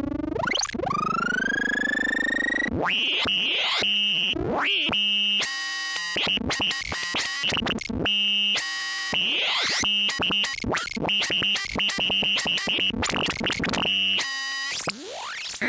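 Lorre-Mill Double Knot analog synthesizer playing a patch. Rising pitch sweeps level off after about two seconds, then a fast, choppy run of bleeping tones plays over a held high tone, with another sweep near the end.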